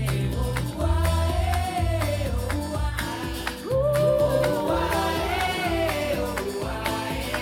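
Pop song played back through Edifier active bookshelf speakers: long sung vocal notes sliding in pitch over a heavy bass line and a steady drum beat.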